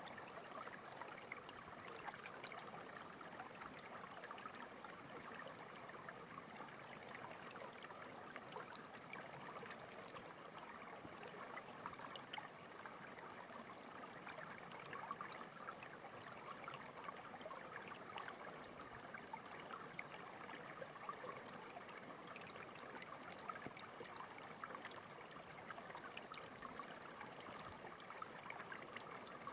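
Clear water of a small stream trickling and babbling steadily, with many small splashes ticking through it.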